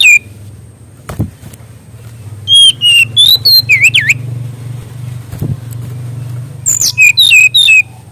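Brown-chested jungle flycatcher (SRDC) singing: three short bursts of rapid high whistled notes that swoop down and up, over a low steady hum.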